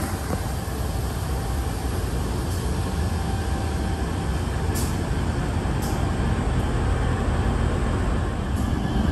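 Freight train passing with a steady low rumble, and a few brief high-pitched squeaks around the middle and near the end.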